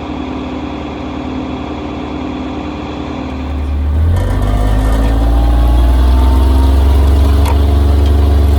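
Diesel engine running steadily, then throttled up about four seconds in. Its pitch climbs over the next few seconds and holds high and louder.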